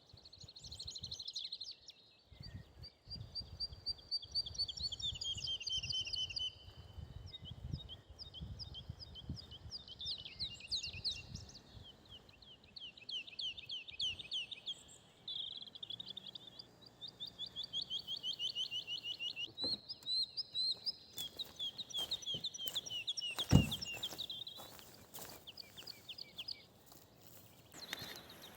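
Several small songbirds singing, with rapid trills and repeated whistled phrases that follow one another without a break. A low rumble sits under the first half, and a single sharp click about three-quarters of the way through is the loudest sound.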